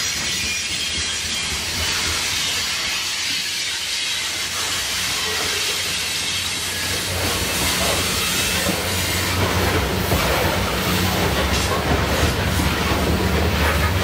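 A CN ore train rolling past, its cars' wheels hissing and clattering on the rails. From about halfway through, the deeper hum of diesel locomotives grows louder: the two distributed-power units at the rear shoving the train up the grade.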